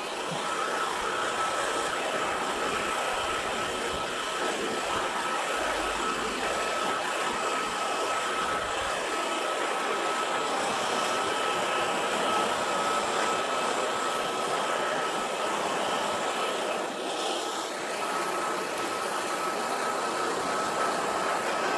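Leaf blower running steadily, switched on abruptly, with a constant high whine over the rush of air as it blows dirt and debris out of a pickup truck bed.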